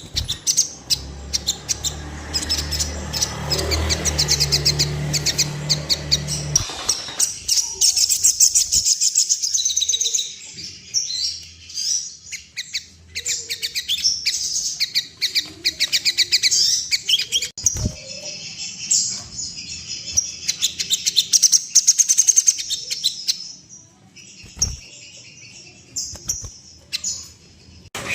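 A sogon bird in full, fast song: long runs of rapid high-pitched chirps and trills, the kind of song keepers play to set other sogon birds displaying and calling. For about the first six seconds a low hum runs underneath.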